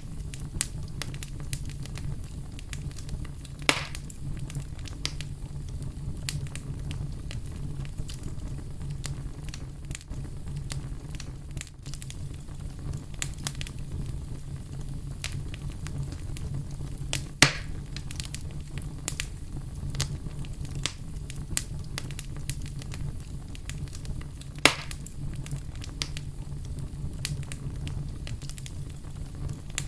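Wood fire burning with a steady low rumble and frequent sharp crackles, three louder pops standing out (about four seconds in, past the middle, and near the end).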